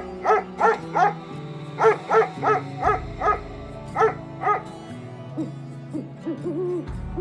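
An animal's short, sharp barking calls in quick runs of two to five, about three a second, over background music. Fainter rising-and-falling calls follow near the end.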